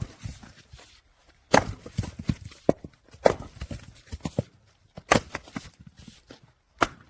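Firewood being split by a log-splitting machine: four sharp cracks at a steady pace about a second and three-quarters apart, each followed by a short clatter of knocks.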